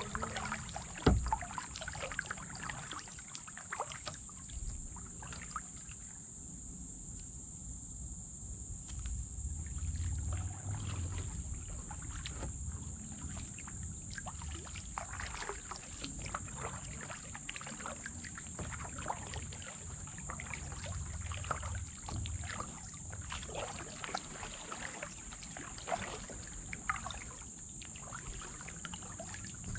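Kayak paddles dipping and dripping water in irregular strokes, with a sharp knock about a second in. A steady high insect drone runs underneath.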